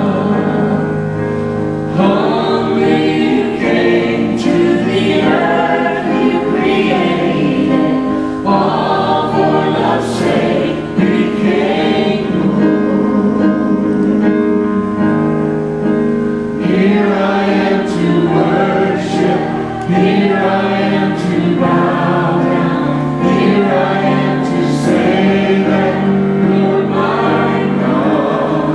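Church choir singing a worship song in held, sustained phrases, with short breaks between lines.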